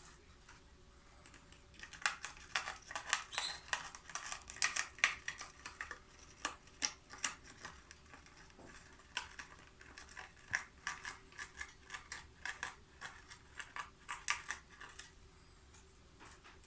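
Peach-faced lovebird cutting paper with its beak: a run of quick, irregular crisp clicks and snips that starts about two seconds in, thins out briefly around the middle and stops near the end.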